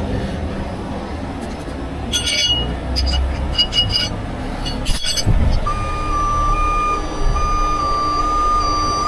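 Truck reversing alarm beeping in a steady repeating pattern, starting about two-thirds of the way in, over a low diesel engine rumble. Before the beeping starts there are several sharp metallic clinks and clanks.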